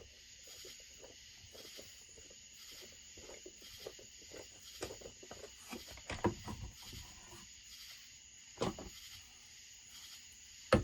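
Small clicks and knocks of hand tools and parts on a Husqvarna 1100CD chainsaw as its covers are unscrewed and taken off during a teardown, with two louder knocks about six and nine seconds in, over a steady faint hiss.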